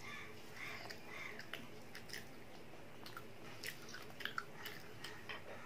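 Faint chewing and mouth sounds of a person eating fried chicken, with scattered soft clicks and crackles as the crispy coating is pulled apart by hand, most of them in the second half.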